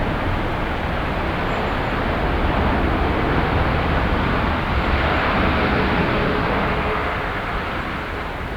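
Jet airliner passing close by, a steady engine rush that swells to its loudest about five seconds in and then fades.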